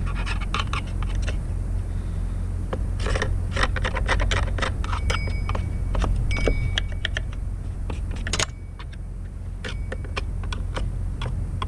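Clicking and scraping of metal chainsaw parts being handled and scraped clean of oily sawdust, in irregular runs of short clicks, over a steady low hum.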